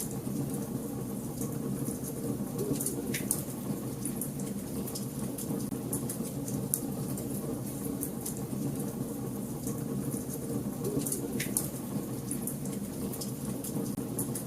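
Wood fire burning in a fireplace: a steady low rush of flames with frequent small crackles and pops, and two sharper pops, about three seconds in and near the end.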